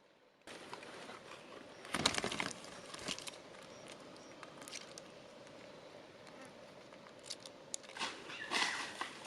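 A faint steady outdoor hum, with scattered sharp cracks and rustles. The loudest clusters come about two seconds in and near the end.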